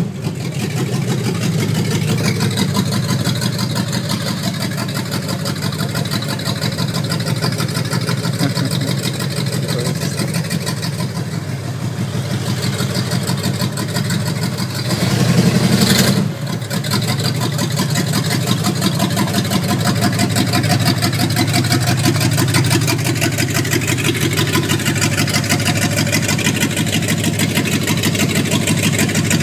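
Engine of a barn-find Dodge Charger running with a steady low rumble as the car moves slowly and stands. It swells louder briefly about fifteen seconds in, then breaks off sharply and carries on.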